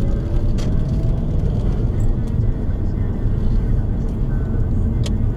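Road and engine noise inside a moving car's cabin: a steady low rumble with a few short ticks.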